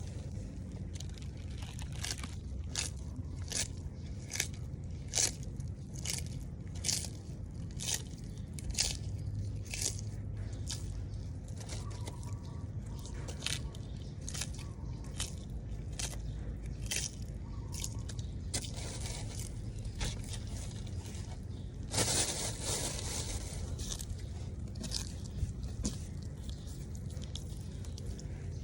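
Sulcata tortoise biting and crunching its food, a run of short sharp crunches about one or two a second, with a longer scraping rustle about two-thirds of the way through.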